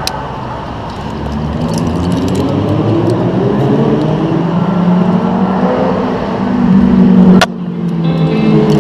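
A motor vehicle engine revving, its pitch rising slowly over several seconds, with a sharp click and a sudden drop about seven and a half seconds in.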